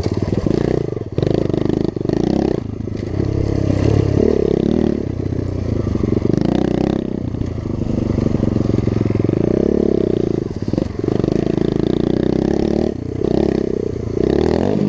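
Dirt bike engine revving as it is ridden, the pitch rising and falling over and over with throttle and gear changes, with several brief drops in the engine note.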